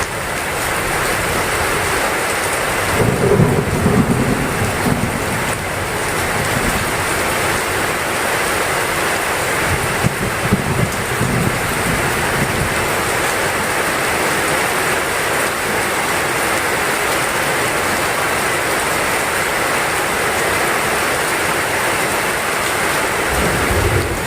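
Heavy rain falling steadily, with low rumbles of thunder rolling in about three seconds in and again around ten seconds.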